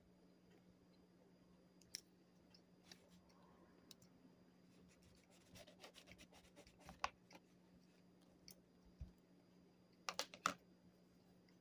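Faint chewing of an old-fashioned plain donut: scattered soft mouth clicks and smacks, with a small cluster of louder clicks near the end, over a faint steady hum.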